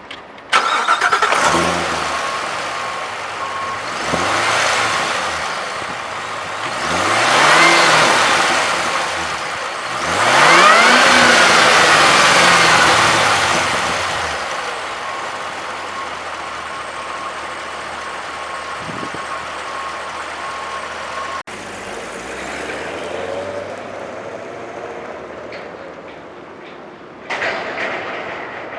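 Supercharged 6.2-litre LT4 V8 of a 2019 Chevrolet Corvette Z06 starting with a sudden loud burst about half a second in. It is blipped three times in rising-and-falling revs, then settles to a steady idle. Another short loud burst comes near the end.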